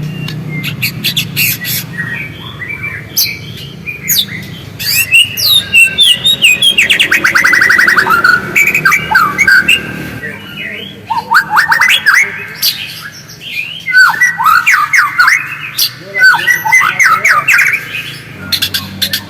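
White-rumped shama (murai batu) singing: a fast, varied stream of whistles, chirps and sweeping notes, with a quick run of rapidly repeated notes near the middle.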